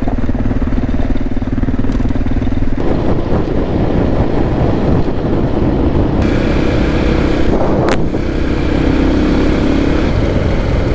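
Motorcycle engine running while being ridden, its note steady at first and shifting about three seconds in.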